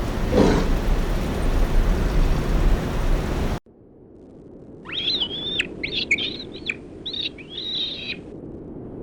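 A loud, even rushing noise cuts off abruptly about three and a half seconds in. About a second later a bird calls in a run of short whistled phrases for about three seconds.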